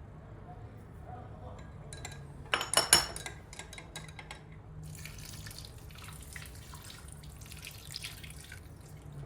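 A few sharp clinks about three seconds in, then water running from a kitchen tap into a sink, over a low steady hum.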